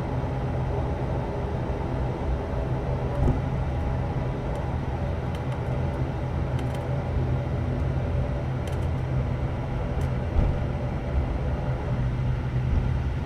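Cabin of an ATR turboprop airliner on the ground before takeoff: the engines and propellers give a steady low hum under an even rushing noise, with a few faint light clicks now and then.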